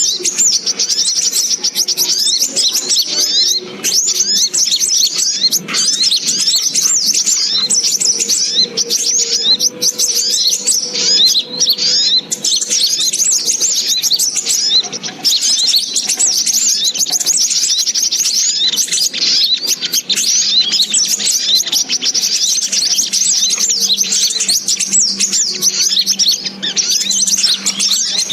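Spiderhunter (sogok ontong) lure call: dense, rapid, high-pitched chirps from several overlapping birds, going on without a break.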